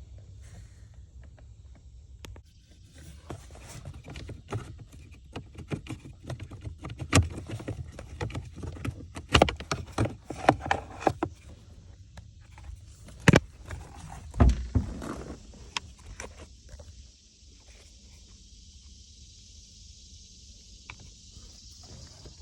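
Irregular clicks and knocks of hands and tools handling hard plastic and metal parts, loudest around the middle. They give way near the end to a faint steady hiss.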